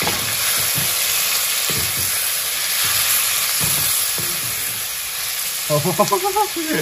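Boiled mutton and potatoes frying in hot oil with onions in a black clay kadai: a steady sizzle, with a spatula knocking and scraping against the pot a few times as the pieces are stirred.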